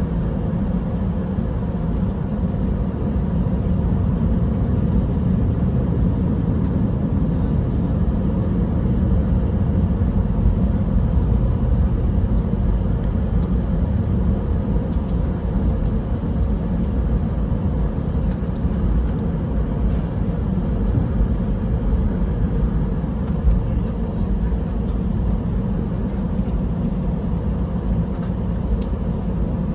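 Steady low rumble of an Airbus A320 jet engines heard from inside the passenger cabin, on the ground before takeoff, with a faint steady hum running through it.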